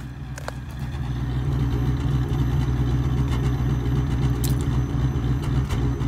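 2000 Mercury Grand Marquis's 4.6-litre V8 running cold in freezing weather. It grows louder about a second in, then holds a steady low drone.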